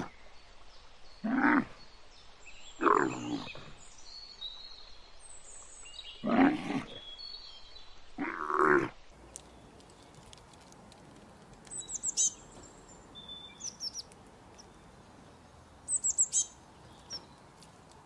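Dromedary camels calling, five loud low calls over the first half, with small birds chirping faintly high above them. In the second half only small birds are heard: short, high, falling chirps in quick runs.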